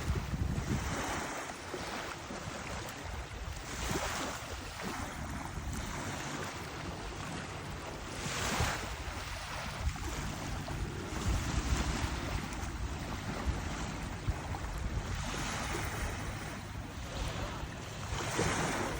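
Sea waves washing onto the shore, a hiss that swells every few seconds, with wind rumbling on the microphone underneath.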